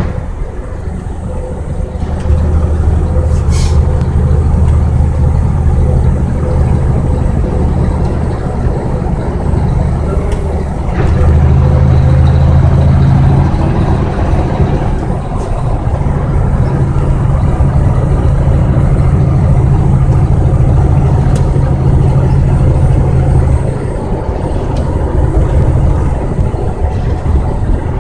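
A truck engine running steadily. The engine note steps up about two seconds in and again about eleven seconds in, then drops back near the end.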